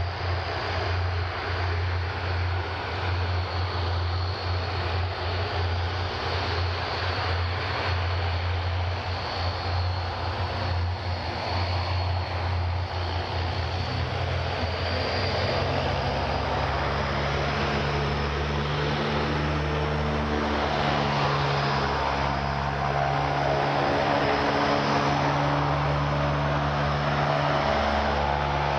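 Twin Ivchenko AI-20 turboprop engines of an Antonov An-32 running as the aircraft lines up for takeoff, a steady low propeller drone. About halfway through the drone steps up in pitch and a higher hum joins it, growing slightly louder.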